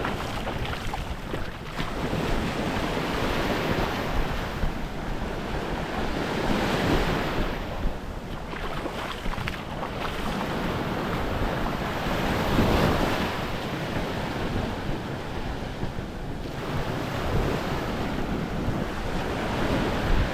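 Small Gulf waves washing up on the beach, surging every few seconds, with wind buffeting the microphone.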